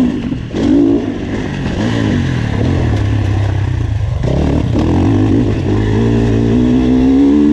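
A GasGas MC 450F's single-cylinder four-stroke motocross engine, heard close from the bike, ridden hard. The throttle is chopped and reopened twice, briefly just after the start and again about four seconds in, and the note then climbs steadily as the bike accelerates out of a corner near the end.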